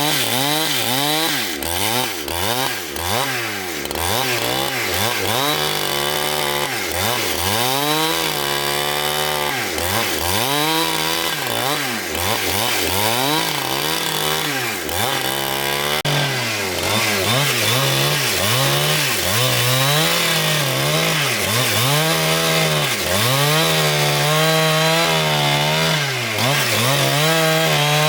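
Petrol chainsaw cutting through wood. The engine note rises and falls about once a second as the bar is pushed into the cut and eased off.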